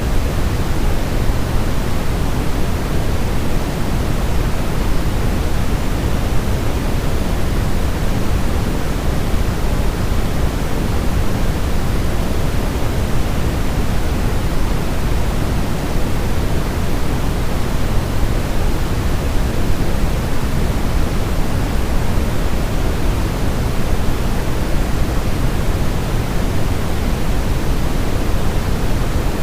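Steady, unchanging white noise for soothing a baby to sleep, weighted toward the low end so that it sounds deep, like pink noise. It is made to imitate the sound of the womb.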